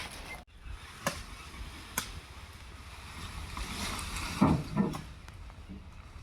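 A low, steady engine rumble, with a couple of sharp clicks and two short, louder thumps about four and a half seconds in.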